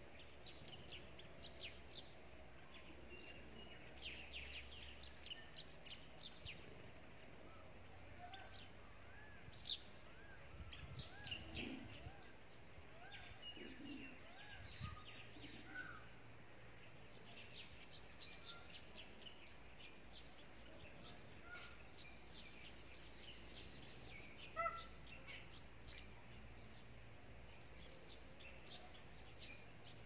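Small birds chirping and calling faintly: a steady scatter of short, high twitters and some lower arched notes, with a couple of louder calls standing out.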